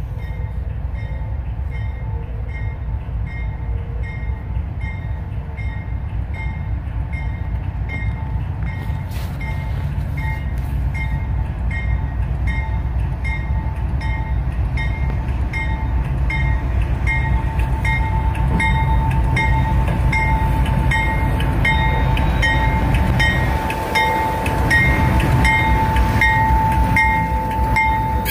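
CSX diesel freight locomotives approaching and passing, a low engine rumble growing louder as they near, with a steady whine that swells along with it. A bell dings about twice a second throughout.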